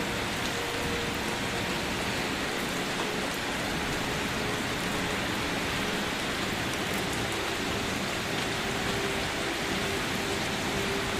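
Steady, gentle rain falling on surfaces: an even, unbroken hiss of many small raindrops.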